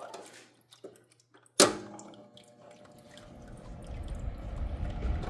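A sharp click about a second and a half in as the Vornado space heater's control knob is switched on, then its fan spinning up on low: a low rush of air growing steadily louder.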